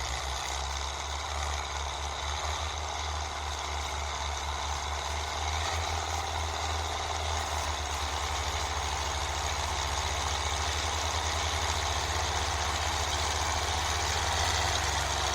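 Tractor engine running steadily under load, its low beat quickening and growing slightly louder through the second half as the revs rise.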